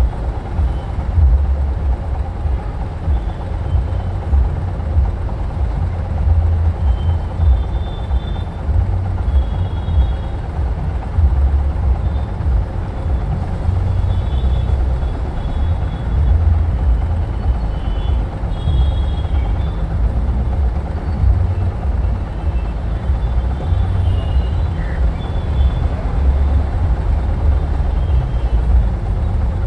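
Riding on a motorcycle: a loud, gusty wind rumble on the microphone over the bike's running and road noise, with scattered faint short high beeps.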